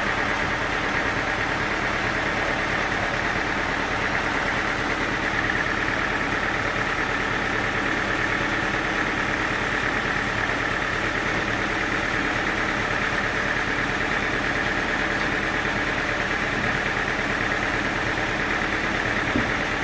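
Sawmill machinery running steadily, a constant drone that holds at one pitch and level.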